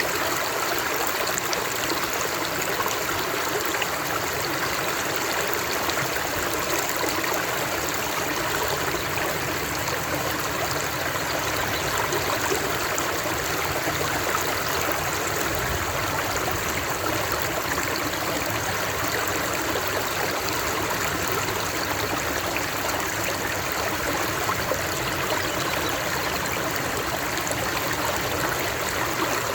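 Running water flowing steadily with an even, unbroken rush.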